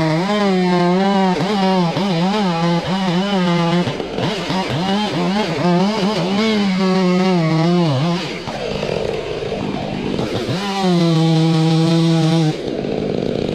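Chainsaw running at high revs, its engine pitch wavering and dipping as the chain is loaded in the cut, then holding steady at full revs. Near the end it switches abruptly to a rougher, noisier saw sound.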